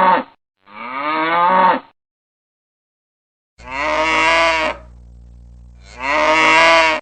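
Cows mooing: four separate moos of about a second each, two near the start and two in the second half, with a silent gap between the pairs.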